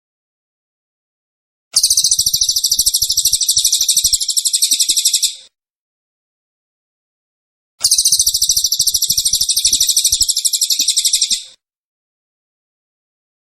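Small songbird singing a dense, very fast high-pitched trilling song in two phrases of about four seconds each. Each phrase starts and stops abruptly, with dead silence between: a looped masteran tutor recording of the kind used to teach cage birds song.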